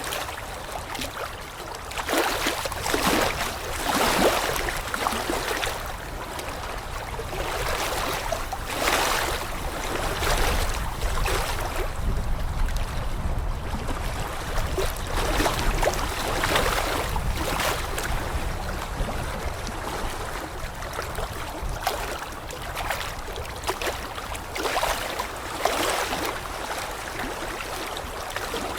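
Rushing water, rising and falling in irregular surges every few seconds over a low rumble.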